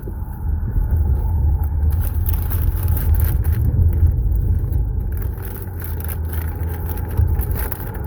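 A steady low rumble with scattered small crinkles and clicks, as a chicken sandwich is handled and eaten close to the microphone.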